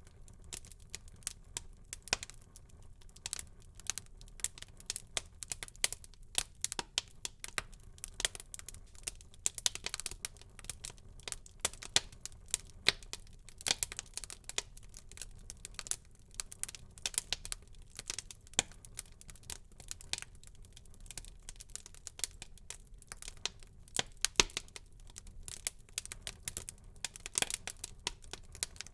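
Wood fire burning in a fireplace, crackling and popping with many irregular sharp snaps over a low hiss.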